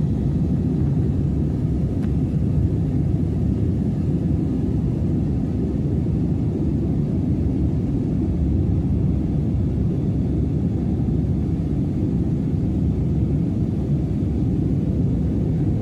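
Boat engine running steadily: a constant low rumble with no change in pitch or level.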